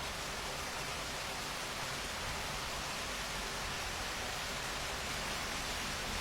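Steady rainfall, an even hiss with no single drops standing out and no change in strength.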